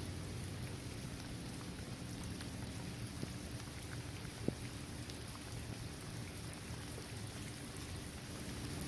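Steady rain falling on a paved basketball court, trees and grass, with scattered individual drops and one sharper drop hit about halfway through.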